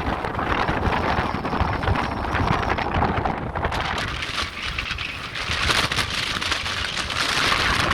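Strong, gusty wind blowing hard across the microphone: a low buffeting rumble under a rushing hiss that grows stronger about halfway through.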